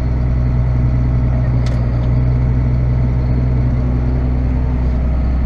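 Tractor diesel engine running steadily at a constant speed, a deep even hum, with a single light click about two seconds in.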